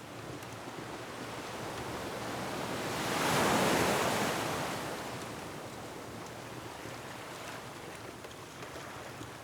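Ocean surf on a rocky shore: a steady wash of waves, with one wave swelling up and breaking about three and a half seconds in, then slowly receding.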